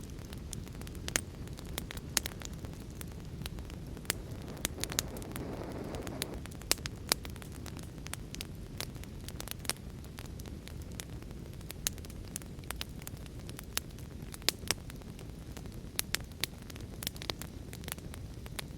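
Fire crackling in a fireplace: a steady low rumble of burning with frequent sharp, irregular crackles and pops. A brief swell of rushing noise comes about five seconds in.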